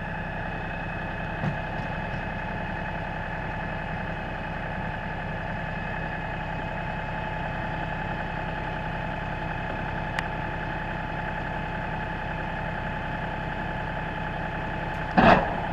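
LS4135 compact tractor's diesel engine idling steadily. Near the end there is a single loud clunk.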